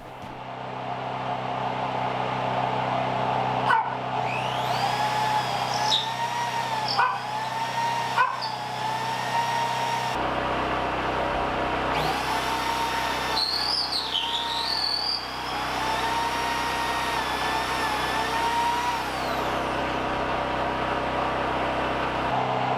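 A motor-driven machine running steadily, its whine sagging in pitch and recovering several times as if taking load, with a few sharp knocks between about four and eight seconds in.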